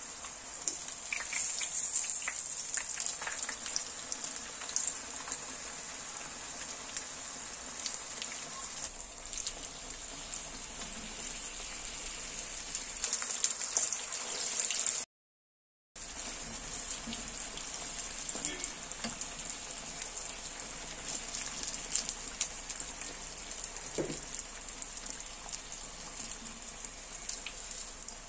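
Çiğ börek, meat-filled pastries, shallow-frying in hot oil in a pan: a steady sizzle with many small crackles and pops. The sound cuts out for about a second midway.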